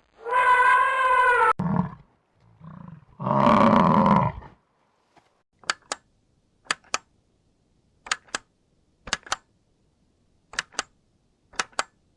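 Animal calls: a loud pitched call, then a loud rough, roar-like call about three seconds in. These are followed by pairs of sharp clicks about once a second.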